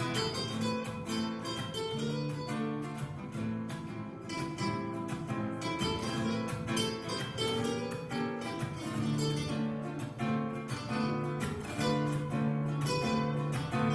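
Background music: an acoustic guitar plucking and strumming a rhythmic pattern.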